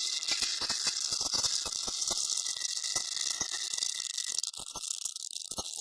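Rapid, irregular rattling and clicking, like objects pelting a surface, over a steady high hiss; the clicks thin out near the end.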